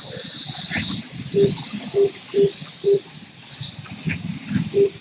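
Electric slot car motors whining at high pitch as the cars race around the track. Short beeps come through it, four about half a second apart near the middle and two more near the end.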